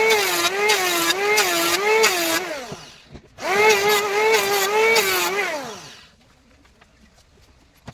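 Handheld electric power tool cutting wood in two runs, its pitch dipping and recovering about twice a second as it bites into the wood; each run ends with the motor winding down in a falling whine, and after about six seconds only faint ticks remain.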